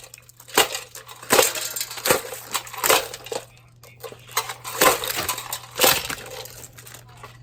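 A vintage Toastmaster 12-inch table fan being smashed: a string of sharp crunching and clinking impacts on its metal and plastic parts, roughly one a second, with a short lull about halfway through.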